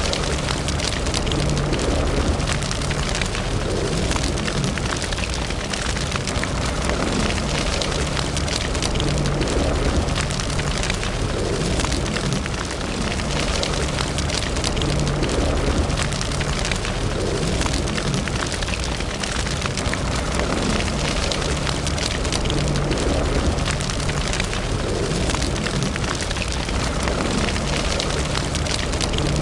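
Wood fire in a fireplace crackling steadily, with many small pops over a continuous hiss and a low rumble.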